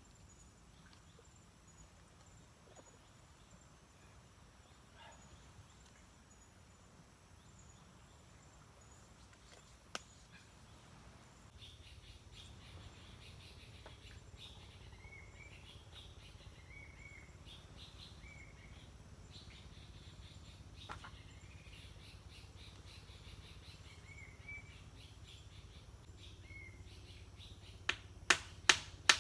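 Quiet forest ambience with a bird giving short repeated chirps every second or two through the middle and later part. Near the end come a few loud, sharp knocks in quick succession.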